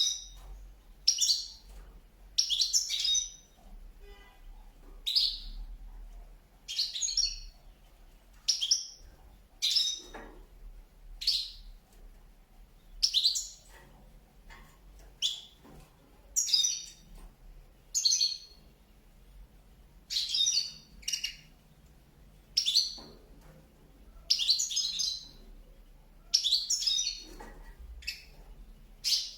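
Pet birds chirping: short, sharp chirps repeated about every one to two seconds, some coming in quick pairs.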